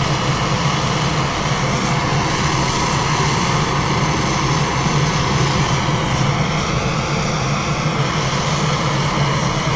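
Soldering torch flame burning with a steady hiss, heating a shower valve's joints to sweat them.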